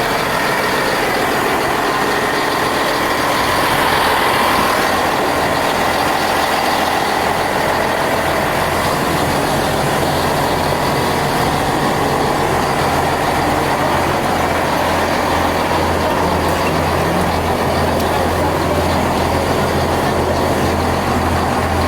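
Class 165 diesel multiple unit idling at the platform: a steady low engine drone that grows stronger about nine seconds in, over constant background noise.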